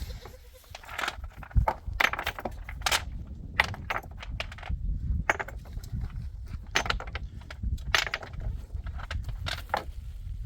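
A run of irregular sharp clicks and knocks of hard objects against each other, over a steady low rumble.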